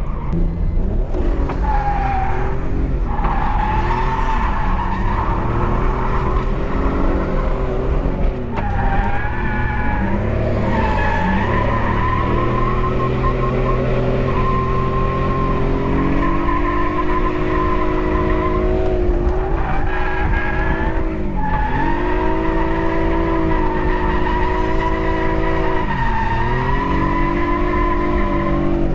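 BMW E46 330i's straight-six engine held at high revs through a drift run, the pitch rising and falling with several brief lifts off the throttle, over steady tire squeal.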